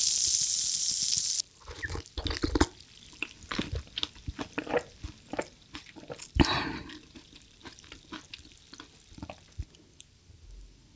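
A steady hiss of cooking food cuts off suddenly about a second and a half in. Then come scattered light clicks and taps of utensils against dishes, with one short, louder rustle a little after the middle.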